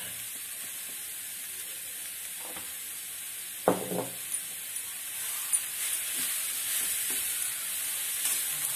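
Grated cabbage momo stuffing sizzling in oil in a metal kadhai, with a spoon knocking against the pan twice just before four seconds in, then stirring and scraping through the frying mix.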